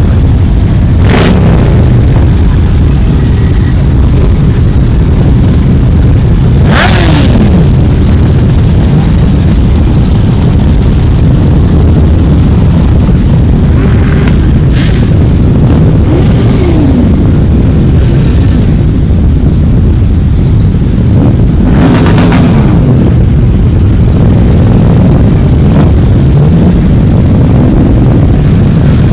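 Motorcycles riding past one after another over a steady low rumble. About five pass close by, each engine note dropping in pitch as it goes past.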